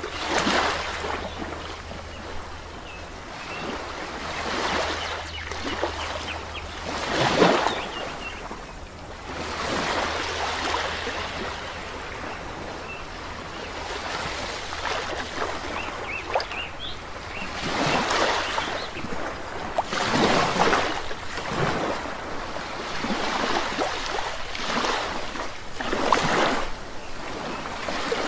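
Sea waves breaking and washing on a shore, swelling and falling every few seconds, with a few faint bird chirps.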